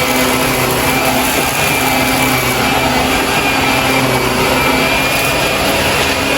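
Shark vacuum cleaner running steadily, its motor giving a constant high whine over the rush of suction.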